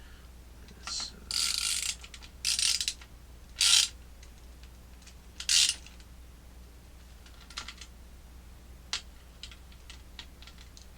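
Clock movement's threaded shaft and nut being worked against a 3D-printed plastic clock face, pressing the face down: five short scraping rasps in the first six seconds, then scattered light clicks.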